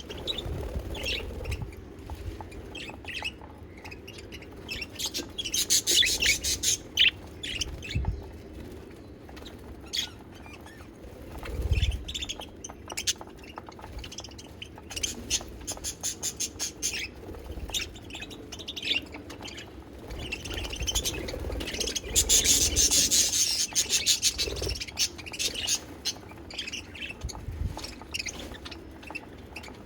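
Budgies chattering and warbling: many short, quick chirps and squawks, with louder runs of chatter about a fifth of the way in, around the middle and again past two-thirds through. A few low thumps come in between.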